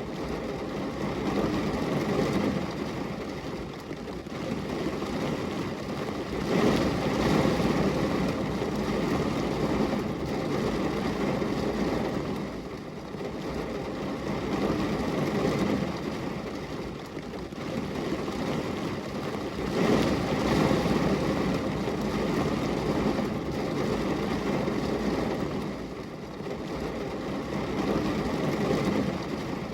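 Rain falling steadily on a glass window, a dense even wash of noise that swells and eases every few seconds.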